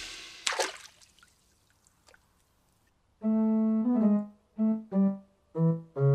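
A short keyboard tune of about six notes stepping downward in pitch. The first note is held for most of a second and the rest come quickly, after a short near-quiet pause.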